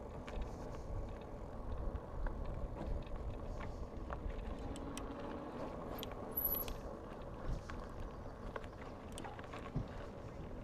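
Bicycle in motion: a steady low rumble of wind on the microphone and tyres on the trail, with small clicks and rattles from the bike.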